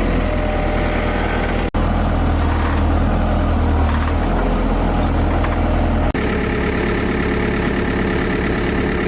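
Bulldozer's diesel engine idling steadily. Twice the sound cuts out for an instant and comes back with a slightly different pitch.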